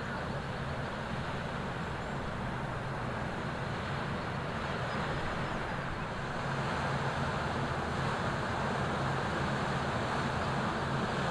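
Inland ship's diesel engine running steadily as the vessel passes, a low drone over a broad rushing noise that grows louder about six seconds in.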